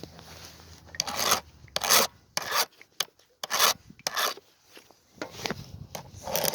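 Hand file rasping across a chainsaw chain in a series of separate, uneven strokes, roughly one a second: the chain being sharpened by hand.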